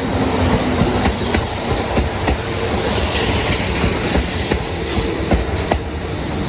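Kintetsu electric train cars rolling along the track, their wheels clicking irregularly over rail joints under a continuous low rumble and a faint steady motor tone.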